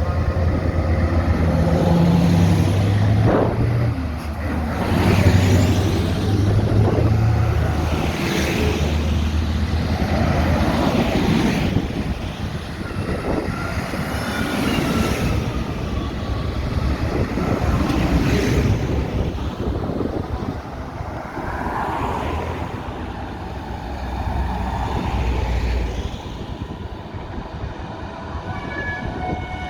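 Diesel tractor engines running past one after another, each one swelling and fading, with a horn sounding a steady tone near the end.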